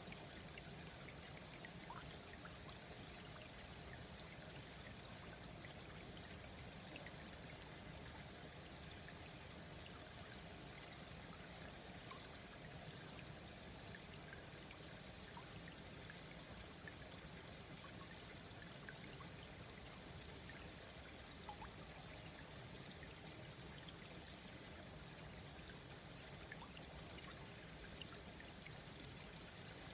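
Small, slow-flowing stream babbling steadily over stones, with faint scattered trickles and drips.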